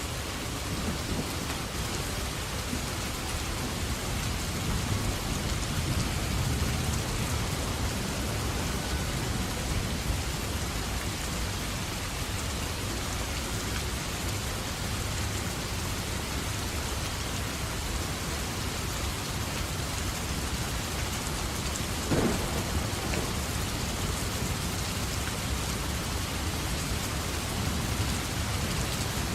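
Steady heavy rain with a low rumble of thunder underneath, and one short, sharper hit about three quarters of the way through.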